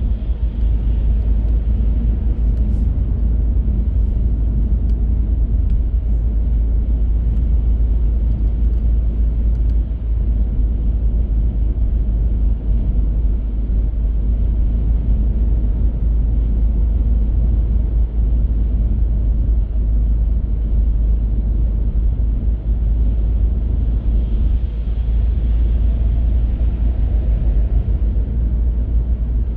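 Steady low rumble of a car on the move: tyre and road noise with engine hum. The hiss swells slightly about three-quarters of the way through.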